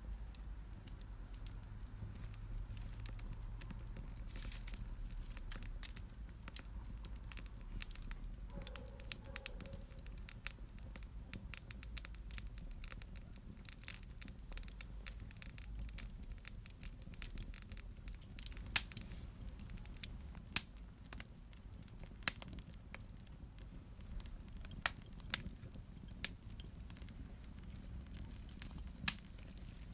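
Wood fire in a fireplace crackling, with sharp pops that come more often and louder in the second half, over a low steady rumble.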